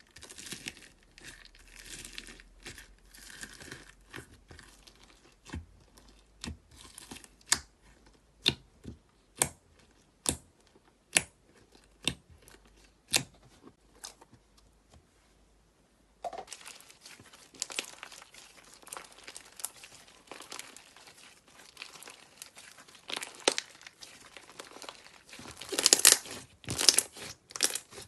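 Slime being pressed and squeezed by hand, giving sharp pops and crackles. In the first half these are single clicks about once a second. From just past the middle they become a denser crackling, loudest near the end.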